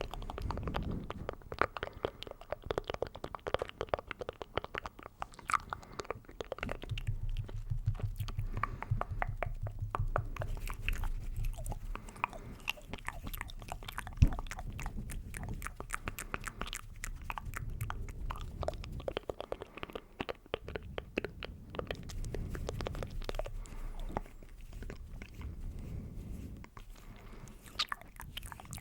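Close-miked ASMR mouth sounds: a dense run of rapid clicks and smacks, with one sharp louder click about halfway through.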